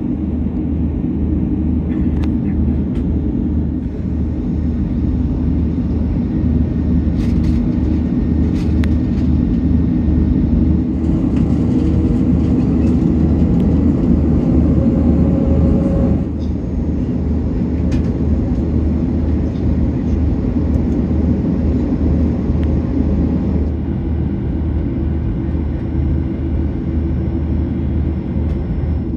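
Steady rumble of an Airbus A330-200's engines and airframe heard from inside the cabin, with a few faint clicks. The sound shifts abruptly a few times.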